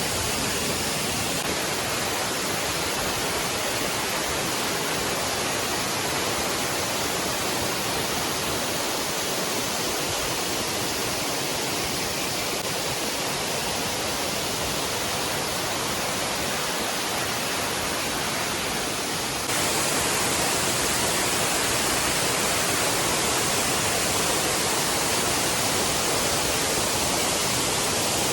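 Waterfall rushing down onto rocks in a steady roar of falling water. It jumps louder and brighter about two-thirds of the way through.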